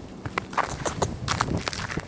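Footsteps crunching through deep snow: a quick, irregular series of short crunches.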